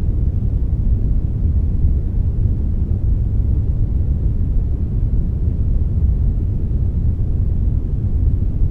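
Synthetic "brownish noise", a blend of brown and white noise, playing as a steady, even hiss weighted heavily toward the deep end, with no changes or events.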